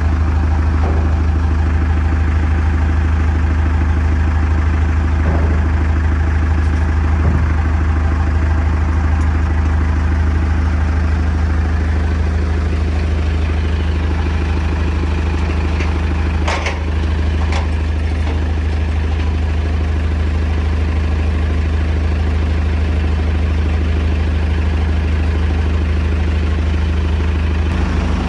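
Heavy diesel engine of a backhoe or truck running steadily at a constant low speed. Two brief clicks come about two-thirds of the way through.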